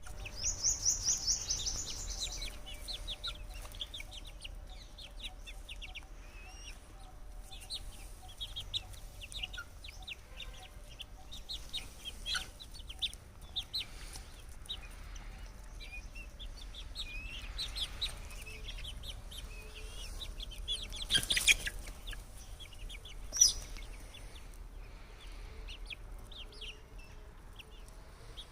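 Aseel chickens clucking and calling, with many short high chirps throughout. A fast run of loud high peeps comes in the first two seconds, and a couple of louder calls come near the end, over a faint steady hum.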